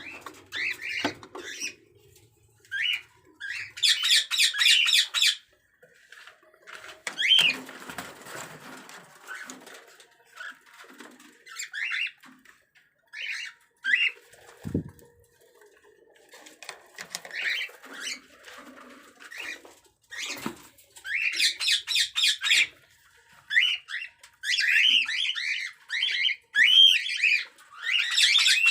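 Cockatiels calling: scattered short, high chirps broken by several bursts of harsh squawking, the loudest about four seconds in, around twenty-two seconds and near the end.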